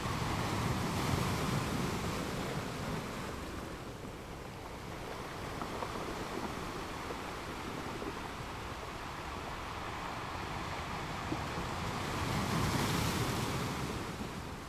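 Wind buffeting the microphone over open water and waves, a steady rushing noise that swells twice.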